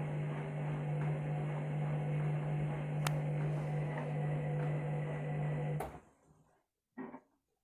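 Candy front-loading washing machine on its main wash with a mattress topper in the drum: a steady motor hum with the drum's churning over it, a click about three seconds in, then a sharper click near six seconds, where the sound cuts off abruptly. A short faint knock follows about a second later.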